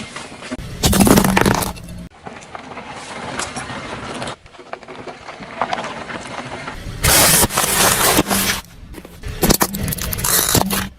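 Car tyres rolling over objects and crushing them, with loud crunching and scraping bursts. Several short clips are joined, so the sound changes abruptly a few times.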